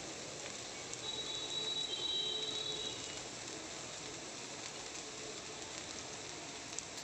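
Steady gentle sizzle of an onion and potato mixture frying in a steel kadai as soaked poha is added.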